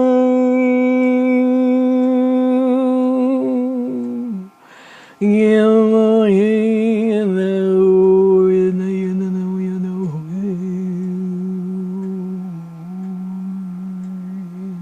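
A woman's voice toning in long hummed notes. One steady note is held, then a breath about four and a half seconds in. A lower note follows; it wavers briefly, then settles and holds.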